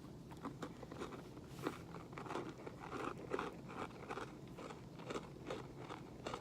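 A person chewing a crunchy oats-and-honey granola bar close to the microphone: a run of small, irregular crunches, about two or three a second.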